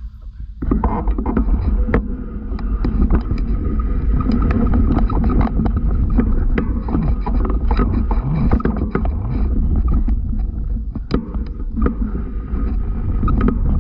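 Ride-along sound from a camera on a trail bike going over muddy ground: a loud, steady rumble of wind and motion on the mic, full of rattles and knocks from the bike over the bumps, with a faint steady whine under it. It comes in suddenly about half a second in.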